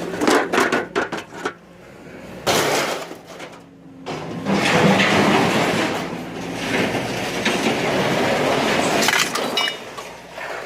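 Scrap metal being unloaded from a truck bed onto a pile: a quick run of clanks and rattles, a crash about two and a half seconds in, then a long stretch of continuous clattering and scraping.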